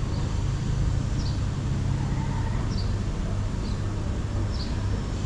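Steady low rumble of road traffic, with faint short high chirps about once a second.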